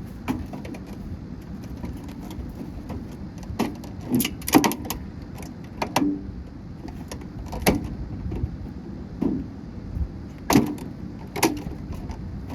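Blows smashing a gutted Rival microwave oven: about nine sharp, irregularly spaced impacts, some ringing briefly, the loudest about four and a half seconds in.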